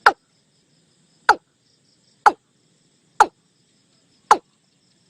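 Five sharp knocks, about one a second, over faint steady chirping of crickets.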